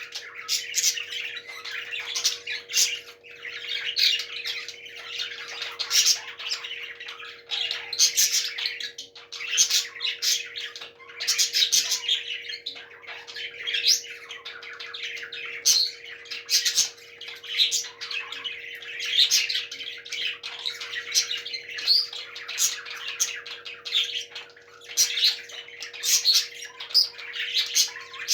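Parrots chattering and squawking continuously, with frequent sharp calls over a faint steady hum.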